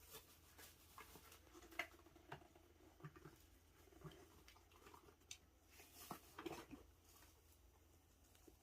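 Faint, irregular light taps and rustles of a cat moving about a chest of drawers, with a slightly sharper tap about two seconds in and a small cluster of them later on.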